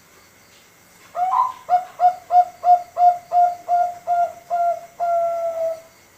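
Five-month-old male zebra dove (perkutut, Thai 'bangkok' line) cooing one full song phrase. About ten short, evenly spaced notes come at roughly three a second, and the phrase ends in one longer held note.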